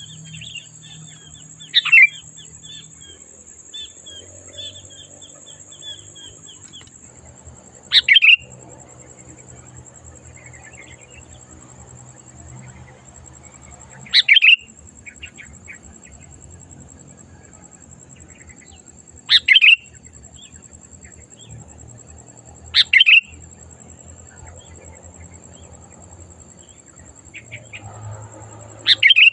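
Sooty-headed bulbul (kutilang) calling: six short, loud, clear phrases spaced a few seconds apart, with fainter twittering between them.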